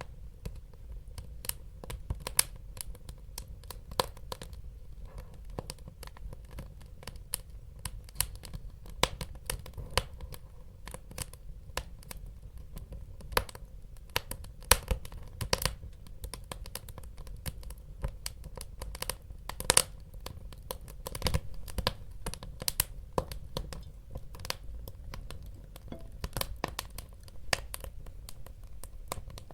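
Wood fire crackling in a fireplace: irregular sharp pops and snaps over a steady low rumble of burning, with a few louder pops now and then.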